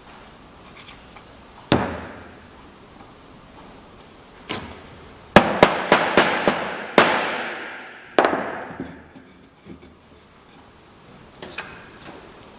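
A series of sharp knocks with fading ringing tails: two single knocks, then a quick run of about five in under two seconds, then another strong one and a few small ones near the end.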